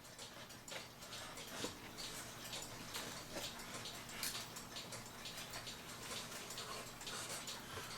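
Light, irregular wooden clicks and taps as the carved wooden topper is handled and fitted onto the top of a cuckoo clock case.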